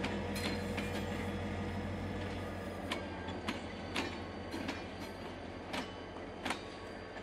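Train hauling the new GTX-A EMU cars on a delivery run, rolling along the track with a steady low rumble that slowly fades. From about three seconds in come a handful of sharp, unevenly spaced clicks, typical of wheels going over rail joints.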